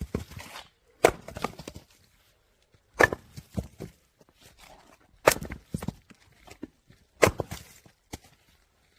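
Firewood being split: four sharp cracks about two seconds apart, each followed by a brief clatter of smaller knocks as the split pieces fall.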